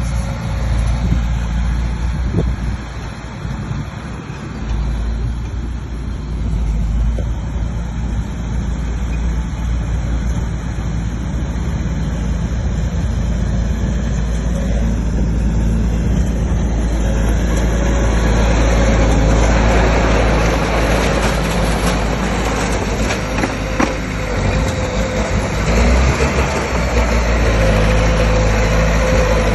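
Bulldozer's diesel engine running steadily, rising in level and coming under heavier load about two-thirds of the way through.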